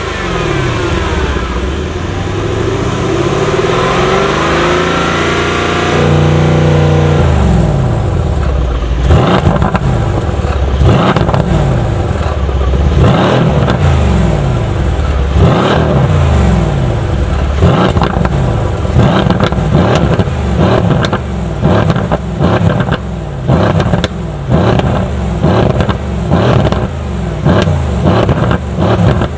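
Mercedes-AMG C63 S's 4.0-litre twin-turbo V8 exhaust, hard on the throttle. After a few seconds of steadier running, the revs rise and fall quickly over and over, about once a second, in rapid gear changes, with sharp pops and crackles at the shifts.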